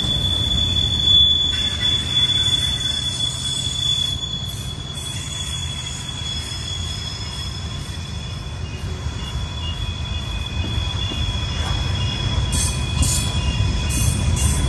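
Train rolling past around a tight curve: a steady rumble from the cars, with the wheel flanges squealing a high, steady tone. The squeal is strongest for the first few seconds, then fades, and several squeal tones with a few clicks return near the end.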